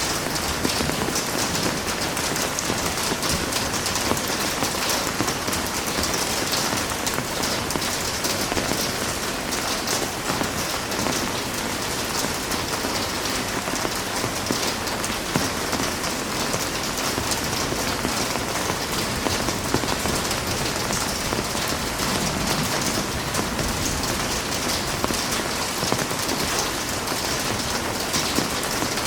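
Heavy rain falling steadily, a dense even hiss of drops hitting surfaces, with no break or change.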